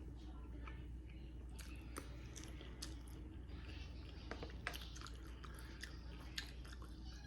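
Quiet, close-up chewing of green beans, with irregular small mouth clicks and smacks.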